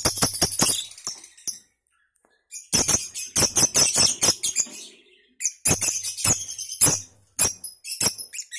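Lovebird ngekek: fast, harsh, high-pitched chattering in dense runs, broken by short pauses about two seconds in and again about five seconds in.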